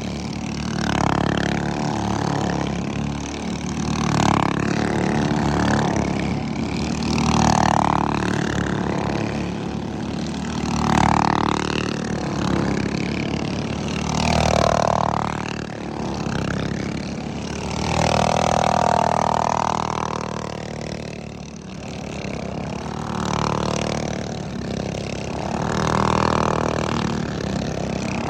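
Small minibike engines running, the revs swelling and falling back every three or four seconds.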